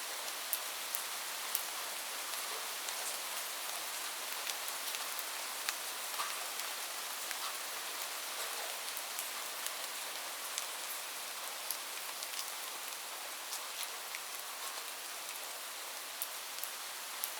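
Steady rain falling, an even hiss dotted with many sharp, irregular drop ticks.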